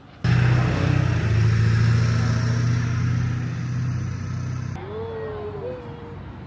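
A motor vehicle running: a steady low engine hum with a wide rushing noise, which starts abruptly and cuts off sharply about five seconds in, leaving a quieter hum.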